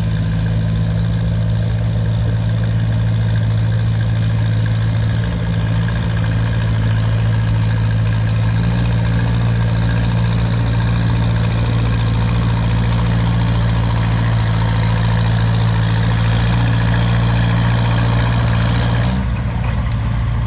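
Minneapolis-Moline 335 tractor engine under load pulling a weight sled, holding a steady, even note. It eases off and drops about nineteen seconds in as the pull ends.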